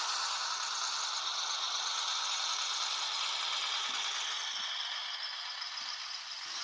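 Viessmann H0 scale model of the ÖBB Robel 54.22 track motor car running, a steady whirring rattle from its small motor and drive.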